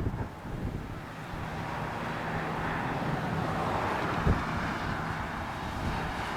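Steady rushing noise of a jet airliner's engines, swelling slightly in the middle, with wind on the microphone and one brief thump about four seconds in.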